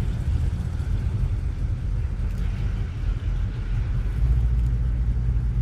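Low rumble of classic American cars' engines as they cruise slowly past in a line. It grows louder about four seconds in as a yellow early-1970s Dodge Challenger draws near.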